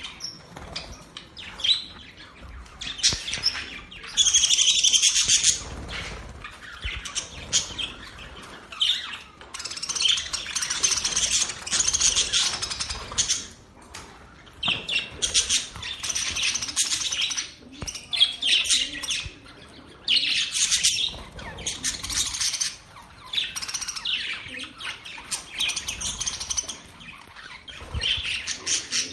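Budgerigars chirping and warbling in bursts of one to two seconds with short pauses between them.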